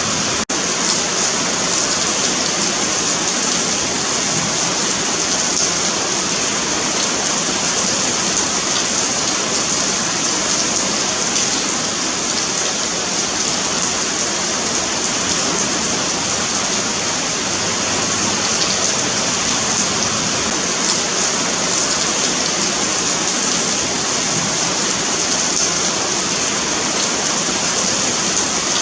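Steady rain falling on a paved sidewalk, an even, continuous hiss of drops hitting the pavement, with a split-second break just after the start.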